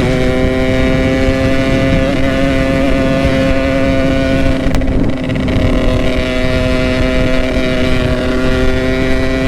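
Yamaha RX-King two-stroke single-cylinder motorcycle engine with an aftermarket Boban exhaust, running at a steady engine speed while riding, over wind noise on the microphone. Its level dips briefly about five seconds in.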